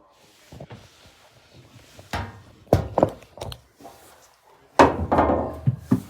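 Hard blows striking a dehumidifier as it is smashed: a few sharp knocks from about two seconds in, then a much louder crash about five seconds in with a second of clattering after it.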